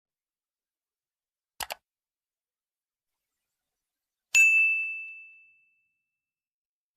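A short double click, then a single bright ding that rings on one high tone and fades over about a second and a half, against complete silence.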